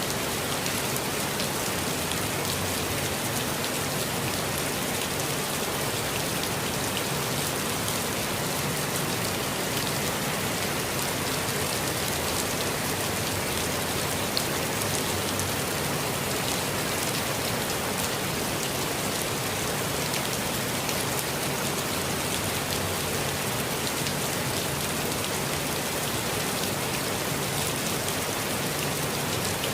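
Steady, even rainfall in a forest, a dense hiss with scattered individual drops pattering on leaves and surfaces.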